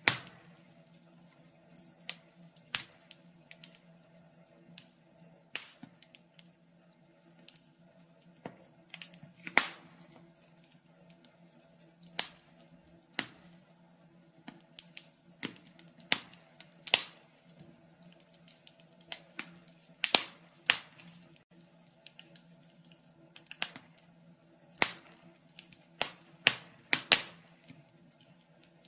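Wood fire crackling in a fireplace: burning logs give off irregular sharp snaps and pops, some much louder than others, over a faint steady low hum.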